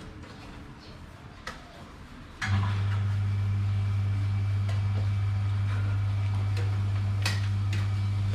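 Electric fan motor switched on and giving a loud, steady low electrical hum that starts suddenly about two and a half seconds in and cuts off near the end, after a few light clicks.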